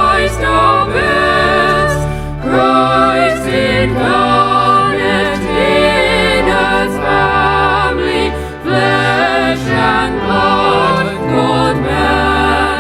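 Sacred music: voices singing with vibrato over instrumental accompaniment with held bass notes.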